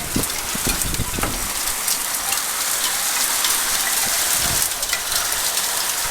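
Heavy rain pouring steadily, a dense hiss with scattered drop impacts, and gusting wind rumbling on the microphone in the first second or so.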